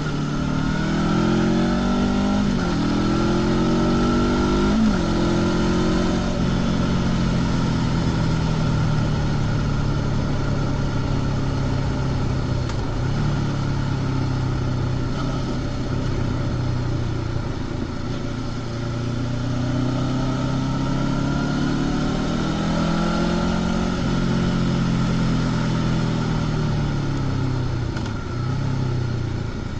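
Honda CB500X's 471 cc parallel-twin engine with stock exhaust, pulling hard through two quick upshifts in the first five seconds. It then runs steadily at cruising revs, climbs again about twenty seconds in and drops back near the end as the throttle comes off.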